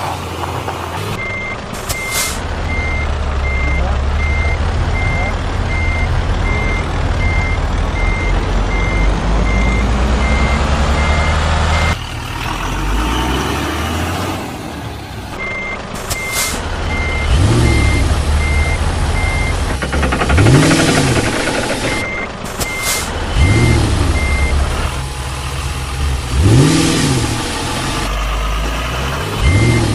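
Truck-like engine running under a reversing alarm that beeps in an even string, stopping and starting several times. In the second half the engine rises and falls in pitch several times, like revving.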